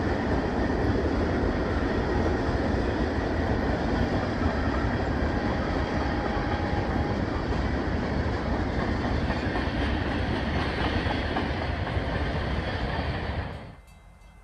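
Freight train of covered hopper cars rolling past, a steady noise of wheels on the rails. It drops away suddenly near the end.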